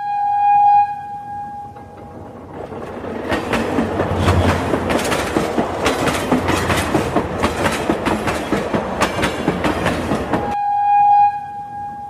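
Toy bullet train's horn sounding one steady tone, then a fast, even clickety-clack of wheels on track for about eight seconds. The horn sounds again near the end.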